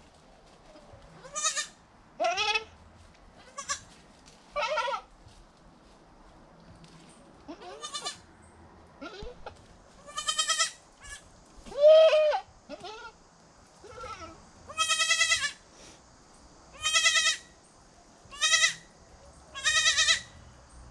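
Newborn goat kids bleating over and over: a dozen or more short, high, quavering calls at irregular intervals.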